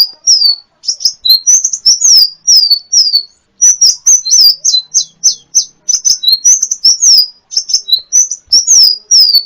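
A sunbird, the 'kolibri ninja' of Indonesian bird-keepers, singing a fast run of high, sharp chirps and short downward-sliding whistled notes, about two or three a second, with a brief pause a little over three seconds in. It is a recording used as 'masteran', for caged songbirds to learn from.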